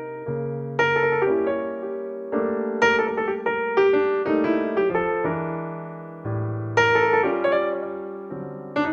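Background piano music: chords and melody notes struck and left to fade, about one cluster a second.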